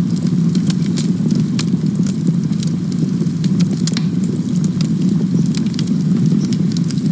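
Campfire burning, with a steady low rumble under frequent small crackles and pops of burning wood.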